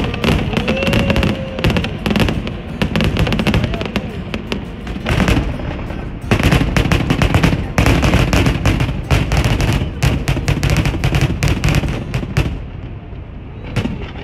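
Fireworks exploding and crackling in a rapid, dense barrage of bangs, which thins out and fades near the end.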